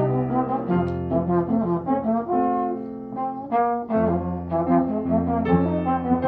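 Small brass ensemble playing in harmony: several parts, including a low bass line, holding and changing notes together.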